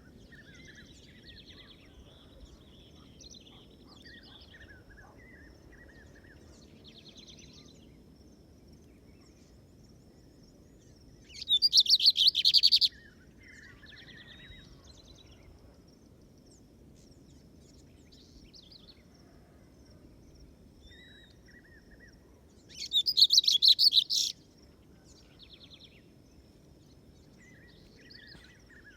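Lined seedeater (bigodinho) singing two loud bursts of rapid, high trilled notes, one about twelve seconds in and one about twenty-three seconds in. Fainter bird chirps and short whistles come and go between them.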